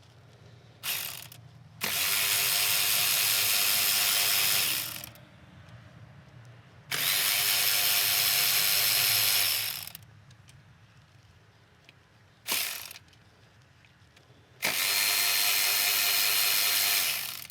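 Power ratchet running out the 10 mm bolts of the valve body cover on a Subaru TR580 CVT: three runs of about three seconds each, with two short blips in between.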